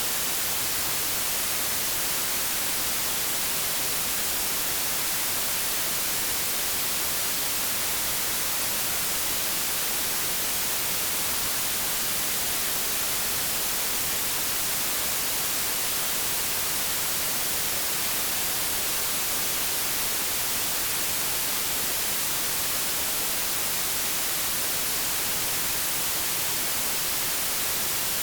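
Continuous white noise like TV or radio static: an even, steady hiss, strongest in the high frequencies, with no change throughout.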